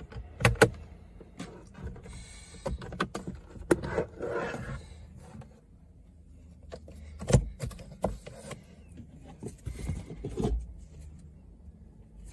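Sharp plastic clicks and knocks with scraping and rustling while a car's cabin air filter is swapped behind the glovebox. The loudest clicks come about half a second in and again around seven and ten seconds, with a stretch of scraping between.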